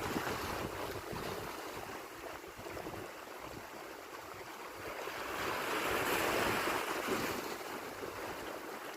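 Sea waves washing onto the shore: a steady surf hiss, with one wave swelling louder about five seconds in and then easing off.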